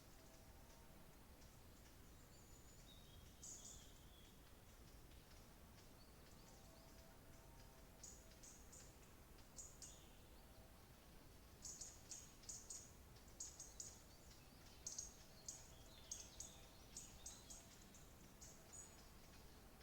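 Faint birdsong: short, high chirps in quick clusters, a few at first and coming thick and fast through the second half, over a low steady background hiss.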